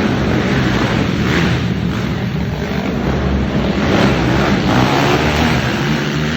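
Several racing quad (ATV) engines running hard together around a dirt track, their revs rising and falling as the riders work the throttles.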